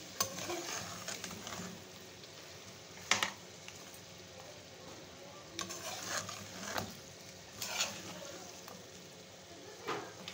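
Mutton pieces frying and sizzling in a steel karahi while being stirred with a metal spoon. The spoon scrapes and clinks against the pan every few seconds, loudest about three seconds in.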